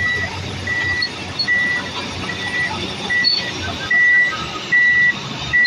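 Reversing alarm on a heavy machine beeping a steady single tone about once every 0.8 s, over the low rumble of its diesel engine.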